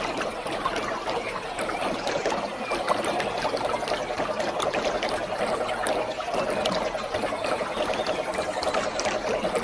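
Waterfall: water pouring and splashing in a steady, unbroken rush, full of small splashing crackles.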